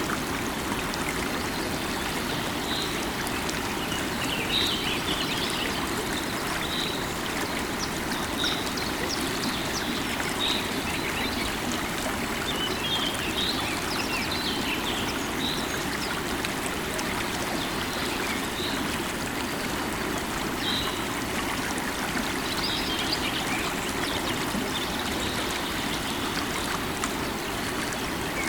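River water running steadily, with birds calling over it. One bird repeats a short high chirp about every two seconds, and a few quicker runs of chirps come in around the middle and again later.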